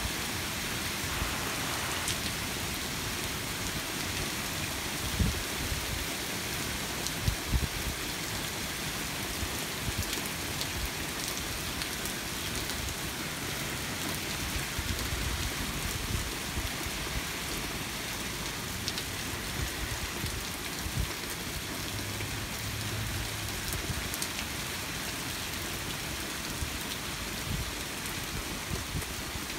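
Steady rain falling during a thunderstorm, an even hiss with a few short low thumps about five and seven seconds in.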